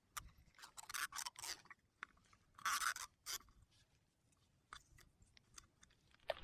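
Black electrical tape being pulled off the roll and wound around a tin can: a series of short crackling rips and scrapes, the loudest about one second and three seconds in.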